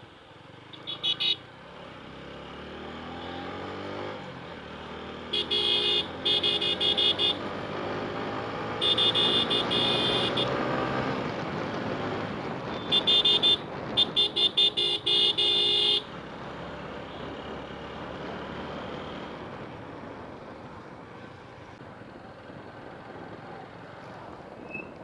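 A motor vehicle's horn honking in repeated short blasts, in bursts of several toots, while a vehicle's engine passes close by and then fades away.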